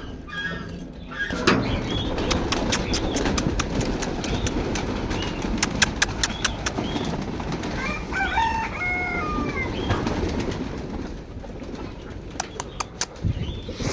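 Pigeons flapping and moving about as their loft is opened, with a run of sharp clicks through the first half and a short bird call about eight seconds in.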